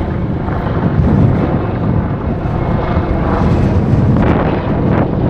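Helicopter flying nearby, its rotor and engine noise loud and steady, mixed with wind on the microphone.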